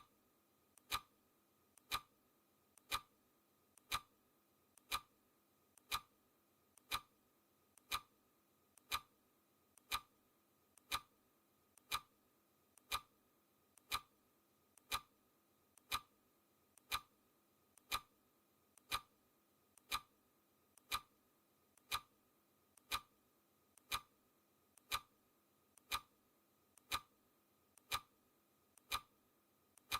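Clock-style ticking sound effect of a countdown timer, steady at one tick a second, each loud tick followed by a much fainter one.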